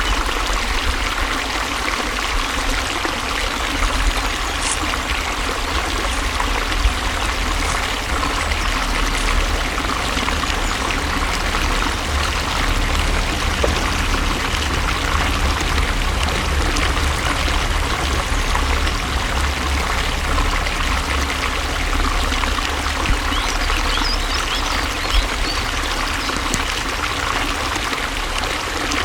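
Water flowing steadily, the continuous splashing and trickling of a stream.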